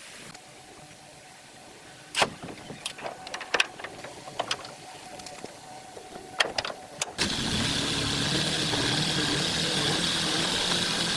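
A few sharp clicks and knocks, then about seven seconds in an engine starts up abruptly and runs steadily, the engine of the old dump truck.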